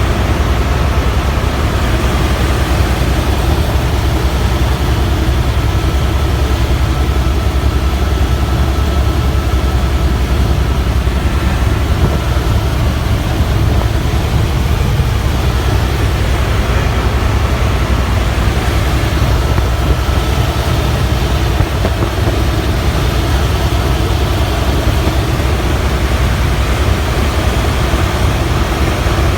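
Helicopter in flight heard from inside the cabin: the engine and rotor making a loud, steady noise, heaviest in the low end.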